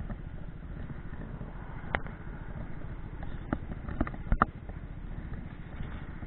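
Motorcycle engine idling with an even low pulse, with a few short clicks or knocks over it.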